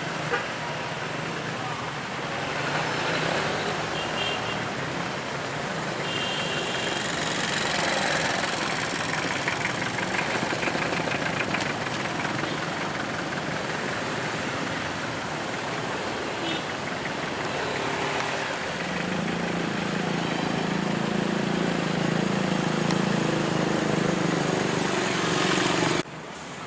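Motor vehicle engine running, with indistinct voices in the background; a steadier low engine drone comes in past the middle and cuts off abruptly near the end.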